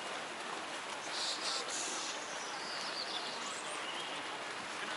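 Small birds chirping, with a few short, high calls and quick falling twitters, over a steady background hiss of outdoor noise.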